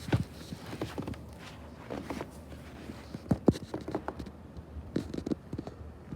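Irregular knocks and scuffs, unevenly spaced several to a second, over a faint low rumble.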